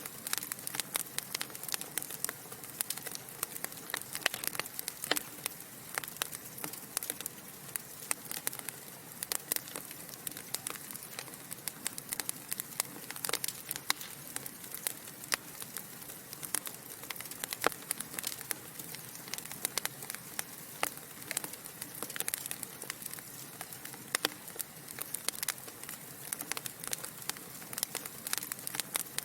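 Wood fire crackling: logs burning in a fireplace, with a constant irregular stream of sharp pops and snaps over a soft steady hiss.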